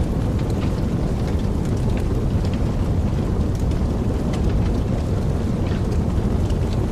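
Wood fire burning in a fireplace: a steady low rumble of the flames with scattered soft crackles and pops throughout.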